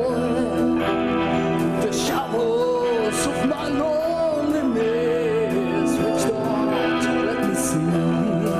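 Progressive rock band playing live: sustained guitar and keyboard chords under a wavering, bending melodic line, with cymbal strokes throughout.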